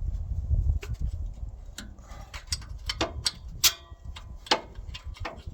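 Hand tools working engine bolts: a low rumble at first, then irregular sharp metallic clicks and clinks from about two seconds in, a few ringing briefly.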